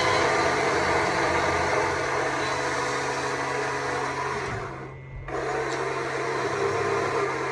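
Stihl MSA 200 C battery chainsaw running and cutting wood. It drops off briefly about five seconds in, then picks up again.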